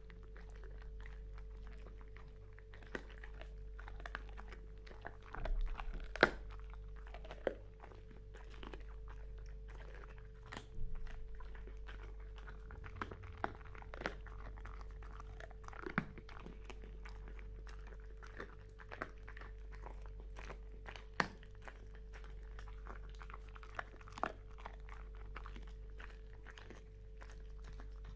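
A dog chewing and gnawing, with irregular sharp crunches and clicks over a steady hum.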